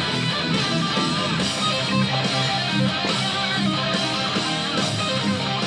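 Guitar music: a guitar playing over a steady, continuous band of sound, with low notes that change every so often.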